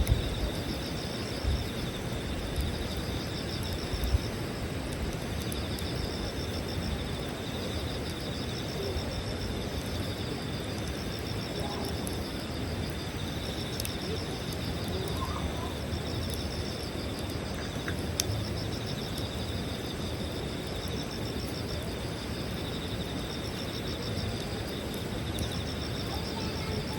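Campfire burning with a few sharp pops, the loudest near the start, under steady insect chirring: one high trill that holds throughout and a second, higher one that comes and goes every few seconds.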